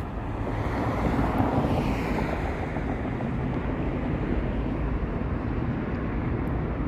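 Steady outdoor rumble of jet aircraft and road traffic, swelling about a second in and then easing off.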